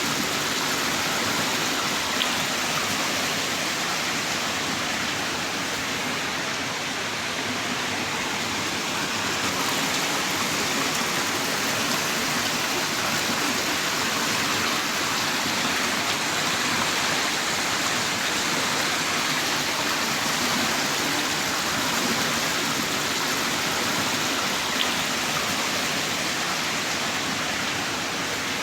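Heavy rain downpour: a steady, dense hiss of falling rain, with two single sharper drop ticks, one about two seconds in and one near the end.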